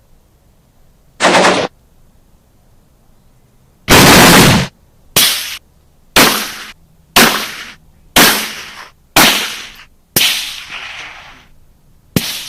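Gunshot sound effects, loud. First come two short bursts of fire, then six single shots about one a second, each with a fading echo, and a last sharp shot near the end.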